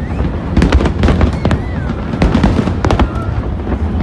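Fireworks display: rapid crackling and sharp bangs over a continuous low rumble of exploding shells, with a couple of short whistles that fall in pitch.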